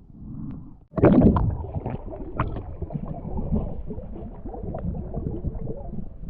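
Water gurgling and bubbling around a diver underwater, with a sudden loud rush of water about a second in and a busy crackle of small bubbles and knocks after it.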